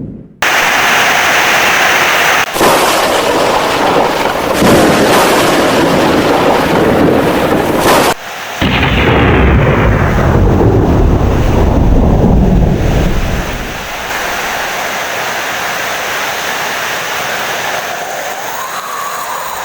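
Heavy rain with thunder. After a moment of silence the downpour cuts in abruptly, and about halfway through a long rolling thunder rumble swells and fades away, leaving steady rain.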